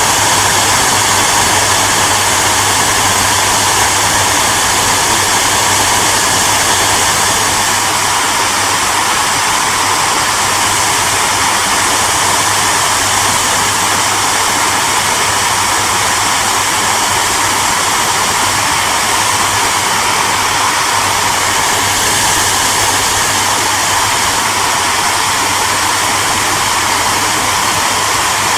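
Hair dryer running steadily: an even rushing of air over a low motor hum, unchanging throughout.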